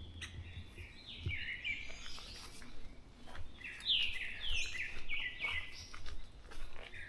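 Several birds calling in a dawn chorus: a string of short, downward-sliding chirps, busier in the second half. A few faint knocks and one low thump about a second in.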